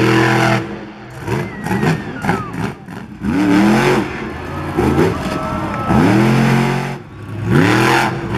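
Monster truck engine revving hard in repeated surges, its pitch climbing and dropping several times.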